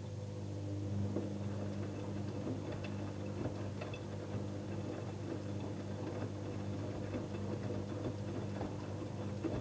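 Electrolux washing machine running, with a steady motor hum that strengthens about a second in. Irregular light ticks and clicks sound over the hum.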